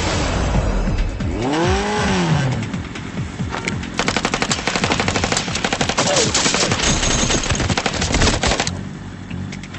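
A long burst of rapid automatic gunfire, about ten shots a second, starts about four seconds in and stops shortly before the end. It is preceded by a vehicle engine that rises and falls in pitch.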